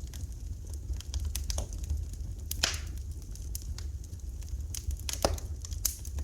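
Wood fire crackling in a fireplace: a steady stream of small clicks and a few louder pops, over a low steady rumble.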